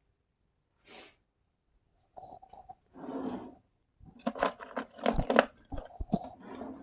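Hands handling small parts on a workbench: light clicks, clinks and scrapes, growing into a dense run of clicks and knocks with a few dull thumps from about four seconds in.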